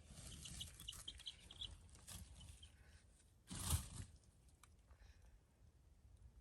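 Faint quick peeping of meat-bird (broiler) chicks, a run of about eight short high notes in the first couple of seconds. A brief louder rustle comes a little past halfway.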